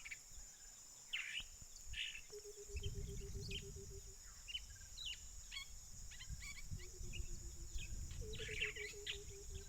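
White-browed coucal (the "water-bottle bird") giving its low, rapid run of hooting notes twice, each run lasting a few seconds. Other birds chirp high above it over a steady hiss of insects.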